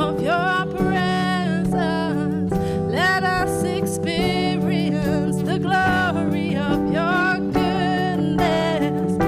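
A worship song played live: a singer holding long, wavering notes over steady sustained chords.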